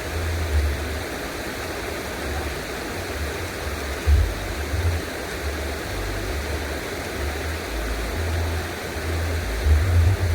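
Steady rushing water with a low rumble that comes and goes.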